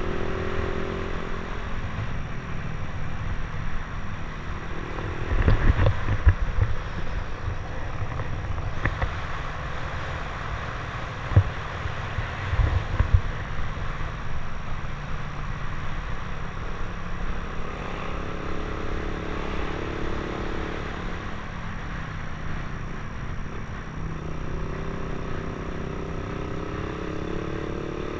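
Motorcycle with an open 'chicken pipe' exhaust running with a low, steady rumble. Its pitch rises twice in the second half, and a few sharp knocks come through in the first half.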